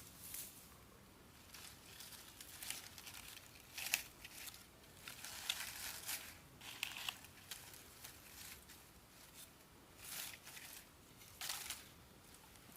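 Faint irregular rustling and crinkling in short spells, with the sharpest crackle about four seconds in.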